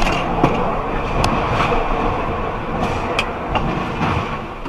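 Steady road-vehicle running noise with several short, sharp clicks.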